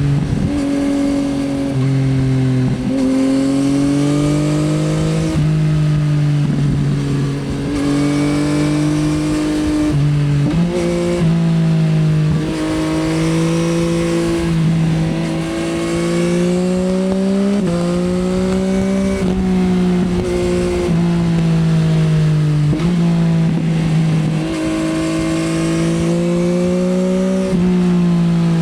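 2024 Yamaha XSR900's inline three-cylinder engine through an Akrapovič Racing Line exhaust, ridden under load. The exhaust note climbs slowly in pitch and then steps to a new pitch every few seconds as the gears change.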